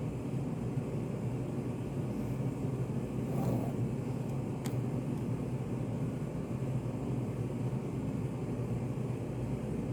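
Steady low hum of a study cafe's room ambience, a constant deep rumble. A faint brief swell comes about three and a half seconds in, and a single sharp click follows about a second later.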